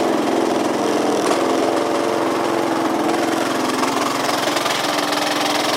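Yamaha Cygnus 125X FI scooter's single-cylinder four-stroke engine running steadily with an abnormal mechanical noise from the engine. The drive does not reach the rear wheel, which the owner puts down to a possibly broken belt.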